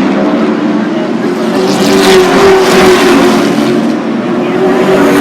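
Racing trucks' engines running at speed around a short oval track, with one truck passing close and loudest about two to three seconds in.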